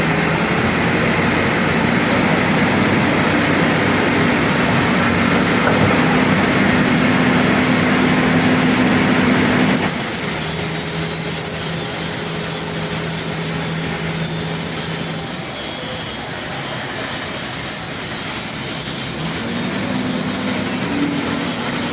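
CAT 330D excavator's diesel engine and hydraulics running steadily under test, with steady tones that shift in pitch at times and an abrupt change in the sound about ten seconds in.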